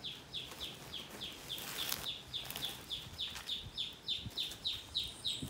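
A bird calling in a steady, quick run of short falling chirps, about four a second.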